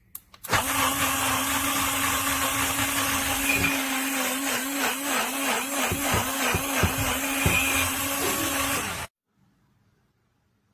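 Battery-powered portable mini blender (COKUNST) switched on with a click and running steadily with water inside, its motor pitch wavering for a few seconds in the middle, then cutting off suddenly about nine seconds in.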